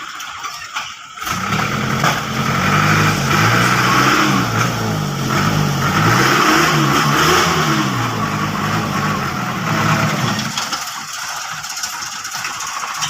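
Old dump truck engine revved up and down over and over, its pitch rising and falling about once a second. It starts about a second in and eases back near the end.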